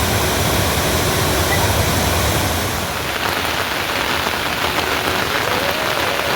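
Heavy rain falling steadily: a dense hiss with a low rumble underneath that eases a little about halfway through.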